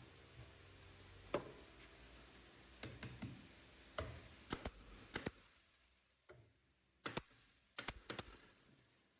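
A series of light, sharp clicks and knocks at irregular spacing, some in quick pairs and triplets, as of small hard objects being handled and set down.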